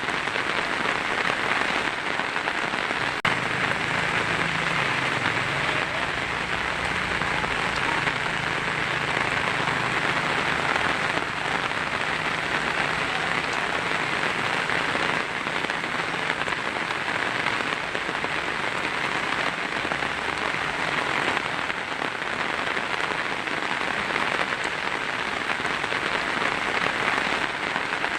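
Heavy rain drumming steadily on a tin roof, a dense even hiss of drops with no let-up. A faint low rumble sits underneath from a few seconds in.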